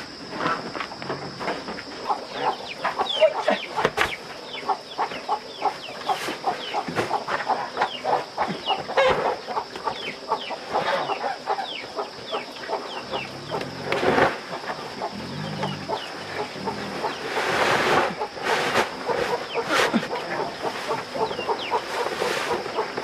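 Poultry calling: many short, overlapping falling calls in quick succession, with a steady high hiss behind them and a few bursts of rustling noise.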